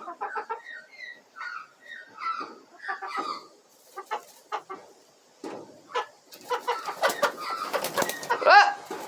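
Backyard hens clucking in short, soft calls, with a brief lull about halfway, then louder and busier clucking and a loud squawk near the end.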